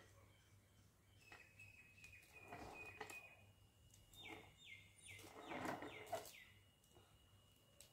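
Faint bird calling: a thin high whistle, then a quick run of about six falling whistled notes around the middle, over soft rustling of a plastic piping bag being squeezed.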